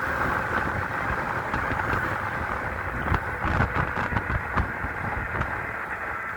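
Wind buffeting the microphone while riding a dual-motor electric bike, over a steady hum from the rolling bike. Gusty low thumps pick up about halfway through.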